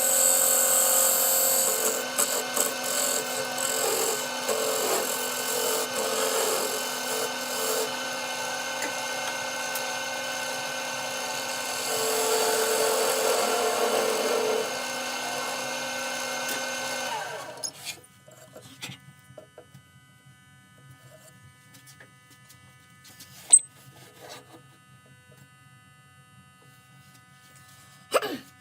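Wood lathe motor running steadily while a tool works the spinning walnut blank, with scraping noise that swells for a few seconds in the middle. About seventeen seconds in, the lathe is switched off and winds down. Quiet follows, with scattered small clicks and one sharp knock.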